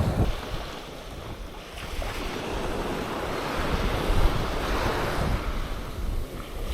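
Surf washing on a sandy beach, swelling and easing, with wind buffeting the microphone.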